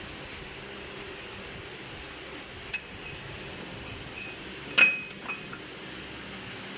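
Metal tools and engine parts clinking against each other as they are handled: a few sharp clinks, the loudest about five seconds in with a short ring.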